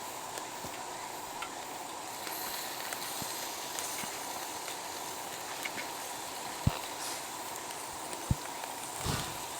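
Steady sizzling hiss of food cooking over a campfire, with a few sharp pops, the two loudest about two-thirds of the way in and a second and a half later, and a dull thump just before the end.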